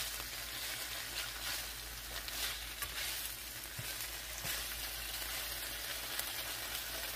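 Cubes of tofu sizzling and crackling in hot oil in a nonstick frying pan, with a few light taps as a slotted spatula turns them.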